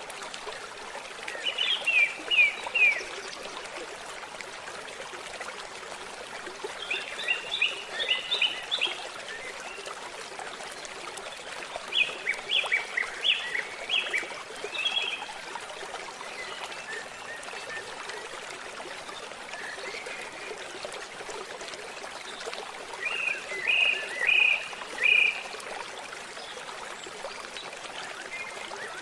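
A small stream trickling and babbling steadily, with a songbird singing four short phrases of rapid, high chirping notes.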